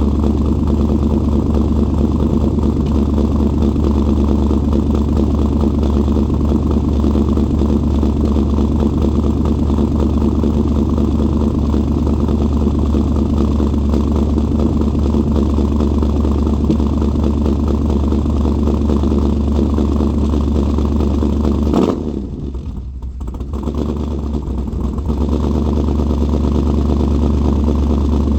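Engine idling steadily after a cold start, with a deep, even hum. About 22 seconds in it suddenly turns quieter and duller for a couple of seconds, then builds back to the same steady idle.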